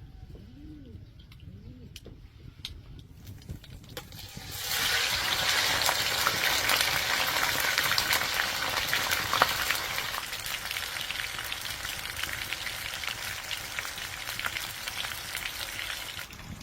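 Food dropped into hot oil, sizzling and crackling loudly. It starts suddenly about four seconds in and slowly dies down, after a few light clicks.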